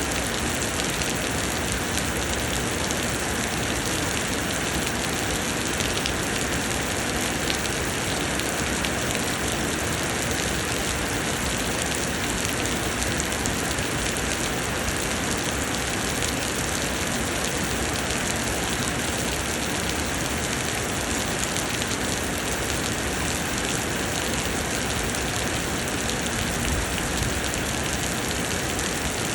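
Summer rain pouring steadily: a dense, even hiss of falling rain that doesn't let up.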